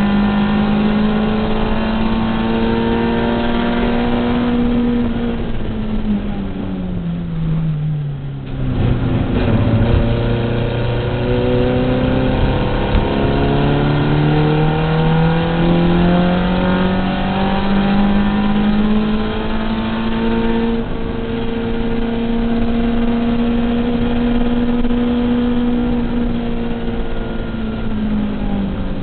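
Race car's engine heard from inside its cabin under racing load. The revs drop about a quarter of the way in as it slows, then climb slowly and hold high, easing off again near the end.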